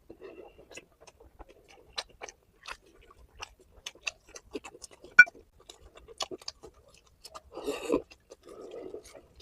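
Close-miked chewing of a mouthful of curry and rice, with irregular wet mouth clicks and smacks and one sharper click about five seconds in.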